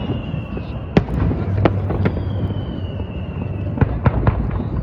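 Fireworks display: sharp bangs at irregular intervals over a continuous low rumble, with a high whistle that falls slowly in pitch from about two seconds in.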